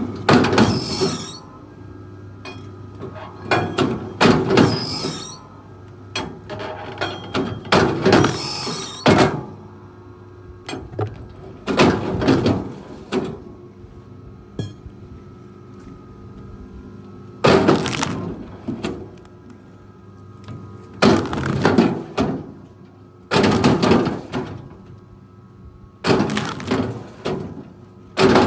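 A heavy machine's engine running steadily under repeated loud bursts of cracking and crashing: wood splintering and breaking, about every two to four seconds.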